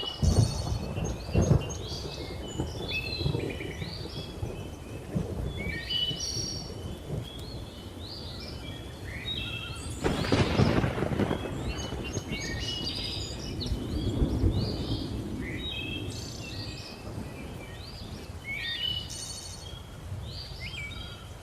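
Thunder rumbling low, with loud surges at the start and about ten seconds in, under a constant chorus of many jungle birds chirping and calling in short, repeated notes.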